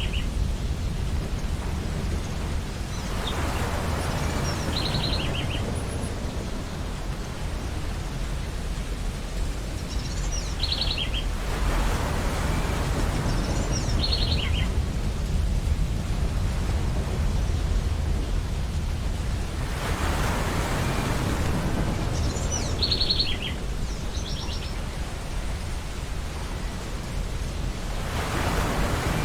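Ocean surf on a beach: a wash of breaking waves swells and fades about every eight seconds over a steady low rumble. Short bursts of seagull calls, each a quick run of high notes, come several times.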